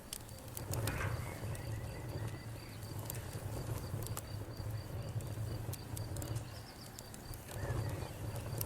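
Campfire crackling, with scattered sharp pops over a steady low rumble. A cricket-like insect chirps in an even, fast, high-pitched pulse throughout, and a faint bird call comes about a second in.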